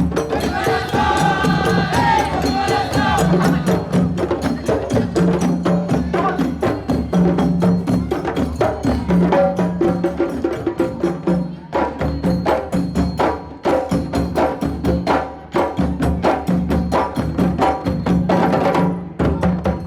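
A parade percussion band drumming a fast, dense rhythm of many drum strokes, with voices singing over it for the first few seconds.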